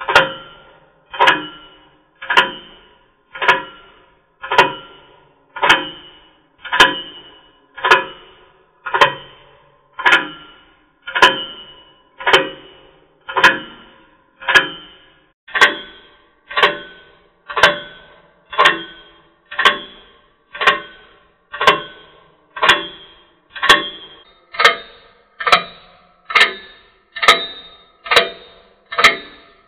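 A bell-like chime struck about once a second in a steady pulse, each stroke ringing and fading before the next, its pitch stepping up slightly about halfway through and again near the end.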